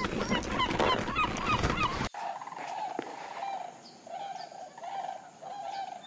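A dense chorus of short, rising bird calls over a noisy background, cut off abruptly about two seconds in. It is followed by a quieter, regular series of lower bird calls, about one every two-thirds of a second.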